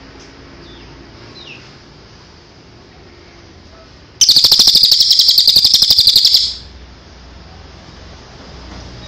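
Songbird singing: a few faint short chirps, then about four seconds in a loud, very fast trill of rapidly repeated high notes lasting about two and a half seconds.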